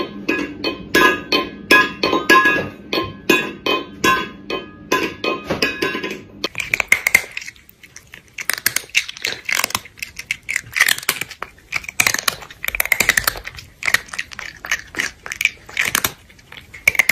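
Crunchy chewing sounds: rapid, irregular crunches and clicks, packed close together for the first few seconds, then sparser and crisper after a short lull.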